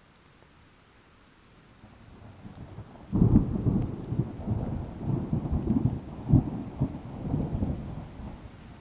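A peal of thunder: a low rumble builds, breaks sharply about three seconds in, and rolls on in a run of quick cracks for about five seconds before dying away, over a faint steady hiss of rain.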